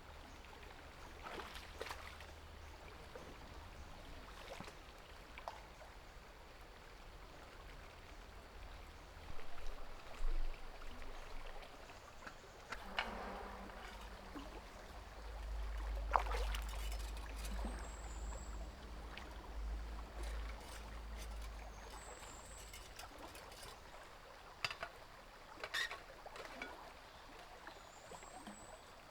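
Water trickling steadily, with scattered sharp clicks and knocks of things being handled and a low rumble in the middle. A few brief high chirps come near the end.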